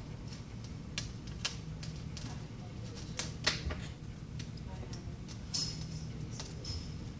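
Scattered sharp clicks and light taps, a few seconds apart, from small tools and parts being handled while working on an iPad, over faint background chatter and a low hum.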